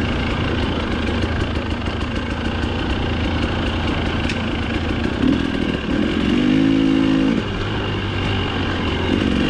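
Dirt bike engine running under riding, with its note rising briefly about six seconds in and again near the end.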